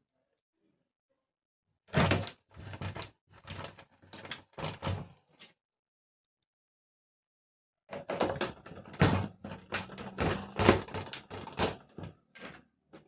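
Repeated knocks and rattles of an electric room heater's parts being handled and fitted together during reassembly. They come in two bursts, the first about two seconds in and the second after a pause of a couple of seconds.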